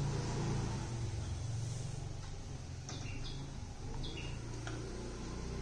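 A small bird chirping a few short high two-note calls, about three and four seconds in, over a low steady hum.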